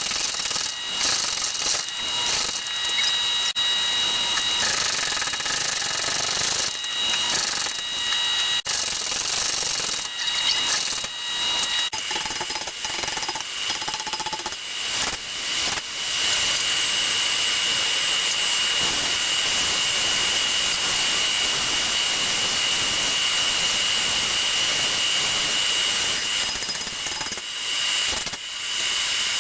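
A power tool running loudly with a steady high whine. The sound is choppy, with a few sharp knocks, during the first half, then runs steadily without a break.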